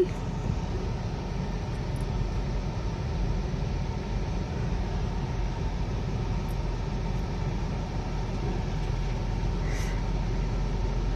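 Ford Edge SUV's engine running with the car in reverse, a steady low rumble.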